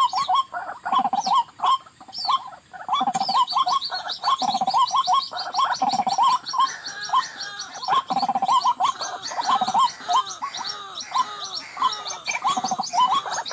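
White-breasted waterhen calling: fast, rhythmic runs of repeated croaking notes, with a stretch of falling, curved notes around the middle. A steady high whine sits underneath.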